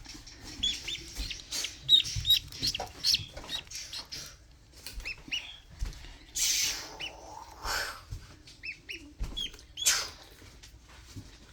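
Newly hatched duckling peeping: many short, high, curved peeps in quick irregular runs, with bursts of rustling about halfway through and near the end.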